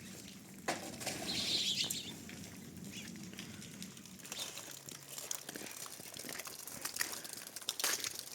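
Chickens moving about, with a rush of wing-flapping about a second in and scattered short clicks and rustles.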